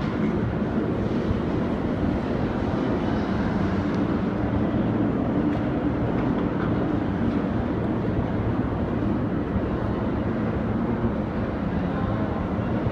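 A Paris Métro Line 14 rubber-tyred automatic train running, a steady, even rolling and motor noise with no distinct knocks or changes.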